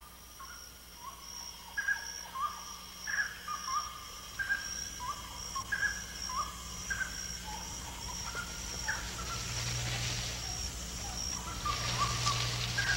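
Rainforest ambience: a bird repeating short whistled calls about once a second over a steady high insect drone. A low hum joins about two-thirds of the way in.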